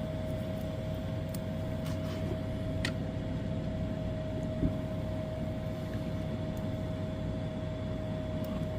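Steady machine hum with a constant mid-pitched tone over a low rumble, and a single light knock about four and a half seconds in.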